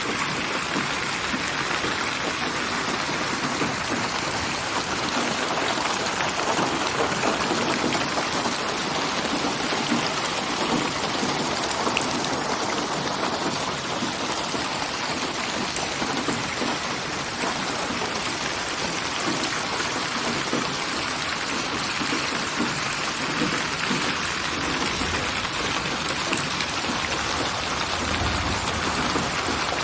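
Steady rain falling, an even dense patter of drops on surfaces, with a faint low rumble near the end.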